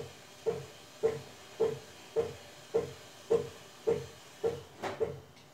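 Brastemp washing machine in its wool/extra-delicate cycle, agitating the load. It makes an even, rhythmic swish-and-thud about twice a second, each stroke starting sharply and trailing off.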